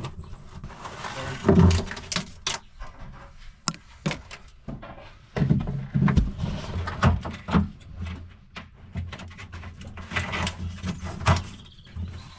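Scattered clicks, knocks and rustling of parts being handled, with a few sharper knocks about a second and a half in and between five and eight seconds in.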